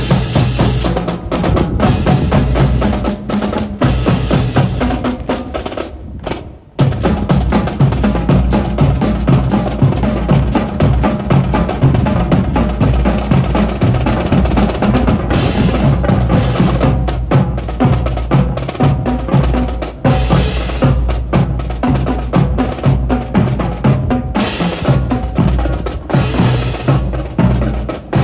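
Loud drum music with snare rolls and bass drum. It drops away briefly about six seconds in, then comes back.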